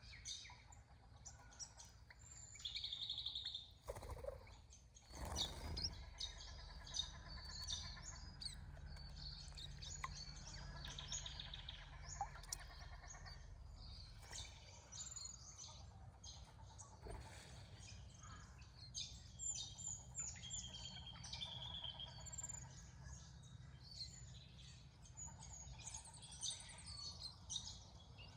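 Small birds chirping and calling again and again, with short trills, over a steady low background rumble.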